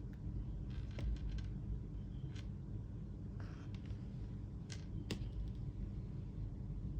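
Hand embroidery work: a few small sharp clicks and short rasps as the needle and thread are drawn through the fabric, over a steady low hum.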